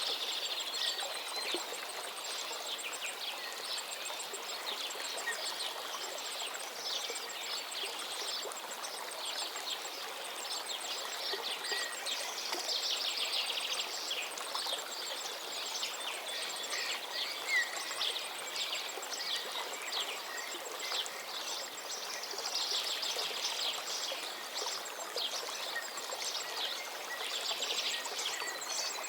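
River water flowing steadily, with small birds chirping over it in intermittent bursts. A faint, regular high ticking runs underneath.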